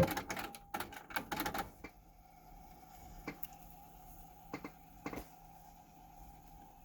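Sony TC-WE475 cassette deck's tape transport being operated between test playbacks: a quick run of mechanical clicks and clunks in the first two seconds, then single clicks a few seconds later, over a faint steady hum.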